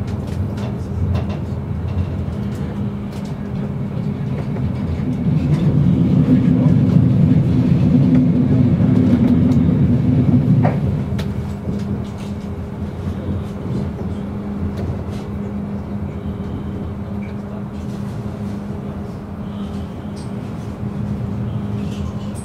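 Regional passenger train running, heard from inside the carriage: a steady low rumble of wheels on track with a constant hum. The rumble swells for about six seconds in the middle, with one sharp click near the halfway point.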